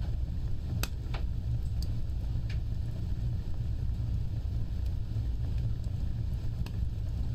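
Fireplace fire burning with a steady low roar and scattered sharp crackles and pops, several in the first three seconds and one more near the end.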